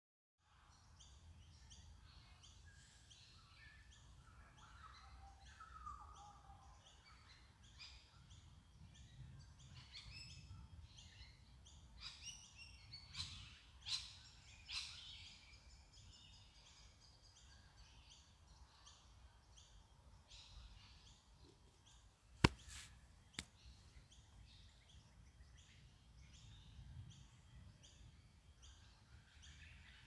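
Many small birds chirping and singing, several at once, over a faint low rumble. Past the middle come two sharp clicks about a second apart.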